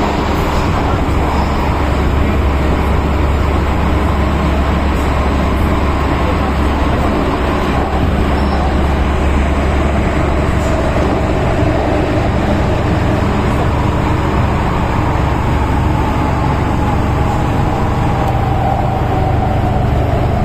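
MTR M-Train electric multiple unit running: a steady low rumble of wheels on track, with a whine that slowly falls in pitch over the second half.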